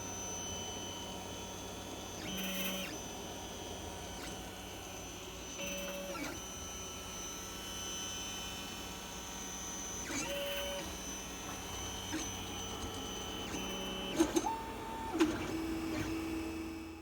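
3D printer running a print: a steady fan hum with the stepper motors whining in short notes of changing pitch as the head moves, and a few sharp clicks near the end.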